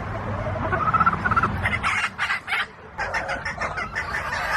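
Chickens clucking, with a pitched call about a second in followed by a rapid string of short, sharp clucks.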